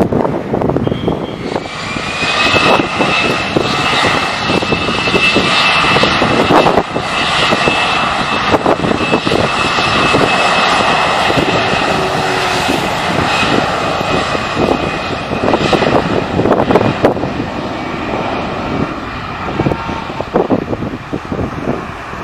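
Airliner's engines passing close by: a loud roar that builds, holds and slowly eases, with a steady high whine over it for much of the time.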